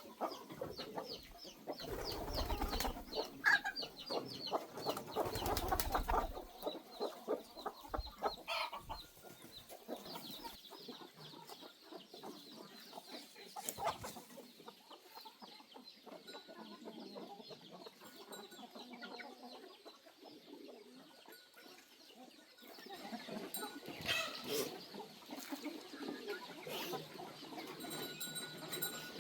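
Chickens clucking, with many short calls that are busiest in the first few seconds and again near the end.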